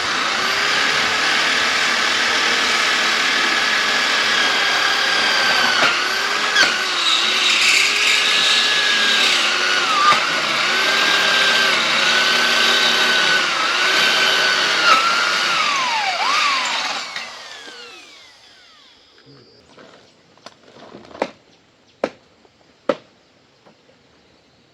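Electric power tool motor running at high speed, its pitch dipping repeatedly as it bogs under load, then switched off and spinning down with a falling whine. A few sharp knocks follow near the end.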